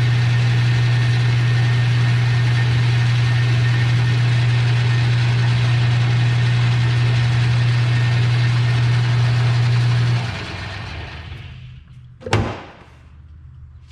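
Metal lathe running with a steady electric hum, then switched off and winding down over about two seconds, followed by a single sharp metallic clank.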